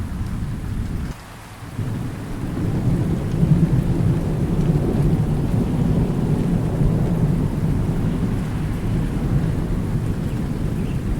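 Heavy rolling thunder rumbling over steady rain. It dips sharply for a moment about a second in, then swells back and keeps rumbling.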